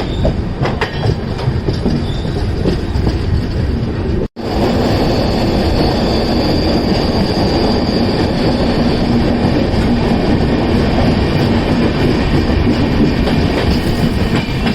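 Passenger train running, heard from on board: steady rumble of wheels on rail, with a high wheel squeal for a few seconds after the middle. The sound drops out briefly about 4 seconds in.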